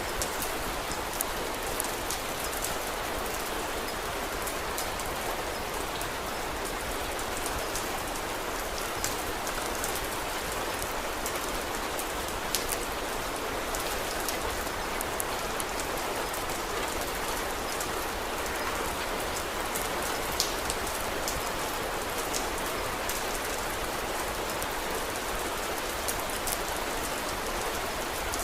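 Steady rain falling, with scattered sharp crackles and occasional louder pops from a wood fire.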